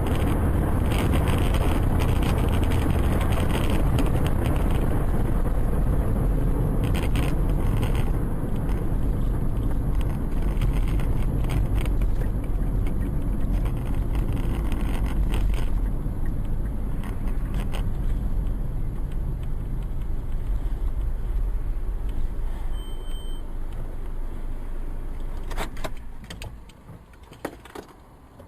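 Car driving, heard from inside the cabin: a steady rumble of engine and road noise with scattered clicks and rattles. The rumble drops away suddenly near the end.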